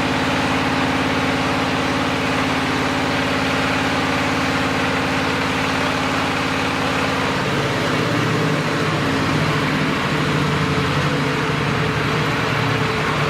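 Diesel engine of a clay brick machine running steadily, its note shifting and dropping about seven and a half seconds in.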